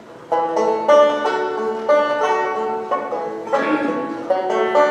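Instrumental music: a plucked string instrument picking out a melody note by note, the notes growing louder about a third of a second in.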